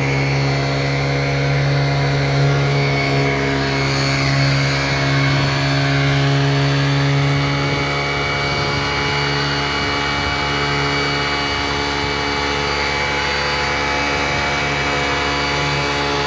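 Small 35 cc four-stroke petrol engine of a wheeled leaf vacuum running steadily at a constant speed, its level easing slightly about eight seconds in.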